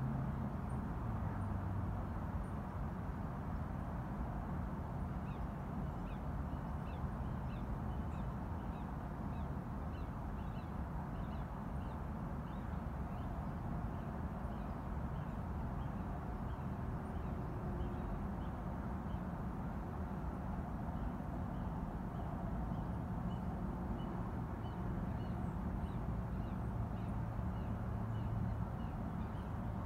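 Birds chirping, short high calls repeated many times over, starting a few seconds in, above a steady low rumble.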